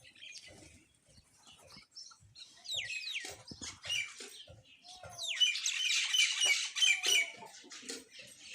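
Several small birds chirping and chattering, with short falling whistles. The chatter grows dense and loudest about halfway through and holds for a couple of seconds, over a few faint low taps.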